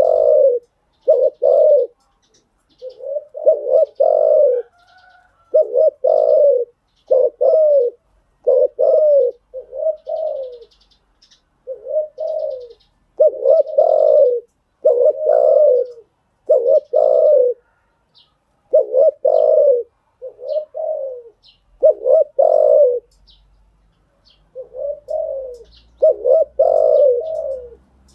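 Spotted dove cooing over and over, low coos coming about one a second in short runs, with brief pauses between the runs.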